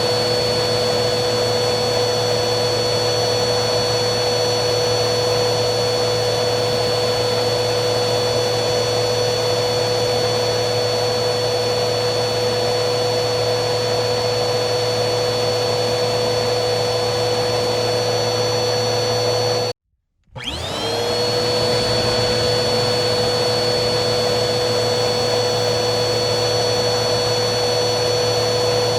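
Vacuum cleaner running with a steady motor whine and rushing air. About two-thirds of the way through, it cuts out completely for about half a second, then comes back, rising quickly back up to pitch.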